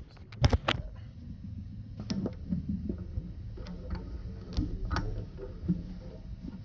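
Scattered light clicks and taps of tools and a metal workpiece being handled, over a steady low hum.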